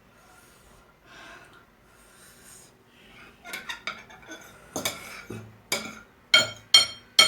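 Eating utensils clinking and scraping against a bowl of noodles: a run of sharp, ringing clinks that starts about three seconds in and gets louder toward the end.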